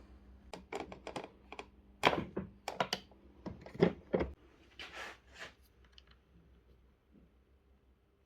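Irregular clicks and knocks, about a dozen over the first five seconds, from a Bosch workshop vacuum's plastic housing and parts being handled, then quiet.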